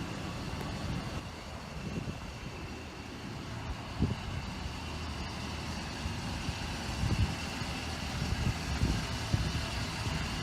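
6.7L Power Stroke V8 diesel engine of a Ford F-450 idling steadily, with a few irregular low thumps over the rumble.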